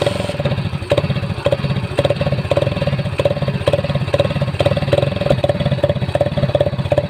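Hero Splendor's single-cylinder four-stroke engine idling steadily with a rapid, even exhaust beat, its exhaust altered by a cut-open aluminium Pepsi can tied on to make it sound like a KTM Duke.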